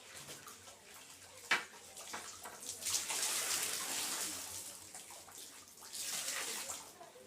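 Mop water splashing and pouring in two spells, with a sharp knock about a second and a half in.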